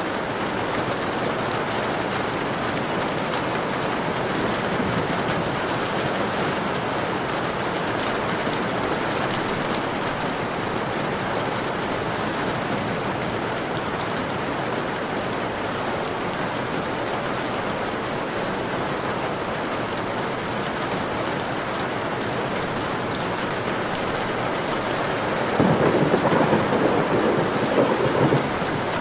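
Steady heavy rain pattering on a window pane. Near the end a roll of thunder rumbles for about three seconds.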